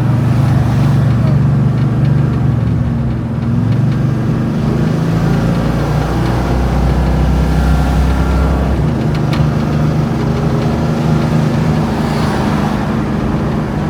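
A 1979 Chevrolet Camaro Z28's V8 running steadily under way, its low engine note shifting a few times as it drives.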